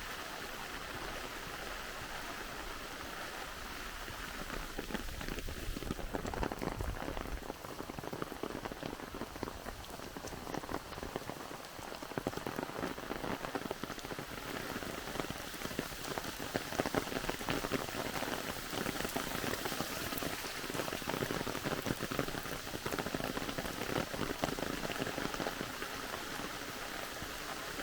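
Steady rain falling, with many close drops pattering; the patter grows a little denser and louder about six seconds in.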